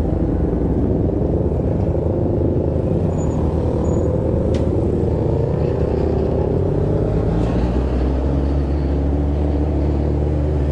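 Motorcycle engines running steadily, a continuous low drone whose pitch drifts slowly.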